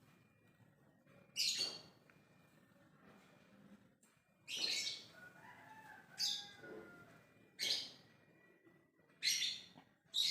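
Lovebird calling in short, loud, high bursts, five or six of them about one to two seconds apart: its ngekek call, given to call other lovebirds.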